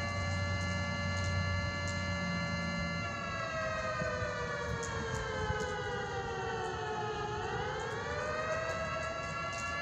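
Air-raid siren sounding a steady tone that, a few seconds in, slowly falls in pitch and then rises back to its steady pitch near the end.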